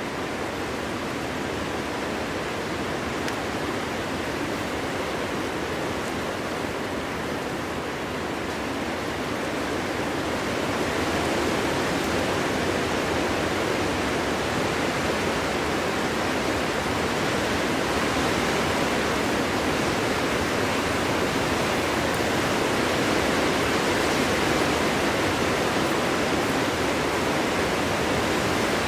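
Wind blowing steadily through a forest: a dense rushing noise with no distinct gusts or whistles, swelling louder about ten seconds in.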